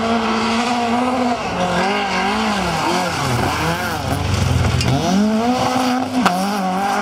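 Rally car engine at high revs on a gravel stage, its revs dropping and rising several times as the driver lifts off and shifts down for the corners, then accelerating hard again. A sharp crack comes as the revs drop about six seconds in.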